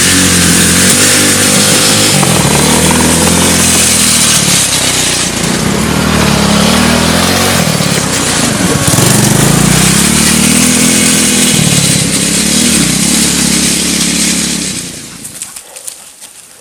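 Small engine of a homemade quad bike running under way, its pitch rising and falling as the throttle changes. The engine cuts off near the end.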